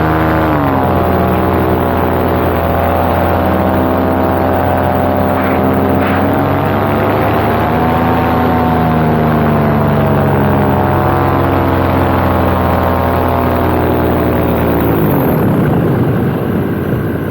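Paramotor engine and propeller running under power, dropping a little in pitch about half a second in and swelling slightly around the middle. Near the end it is throttled back sharply for the approach to landing, leaving mostly wind noise on the microphone.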